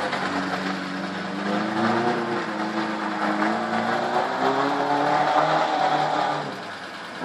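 Rally car engine revving and accelerating on a loose-surface course, its pitch climbing and falling back several times, then easing off near the end.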